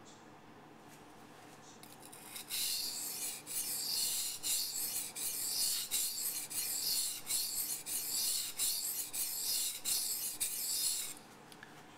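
Steel knife edge being stroked back and forth across a 400 grit waterstone: a run of rasping scrapes that starts about two seconds in and stops shortly before the end.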